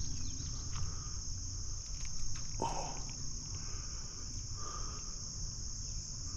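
Steady, unbroken high-pitched chorus of crickets, with a brief louder knock or splash a little under three seconds in.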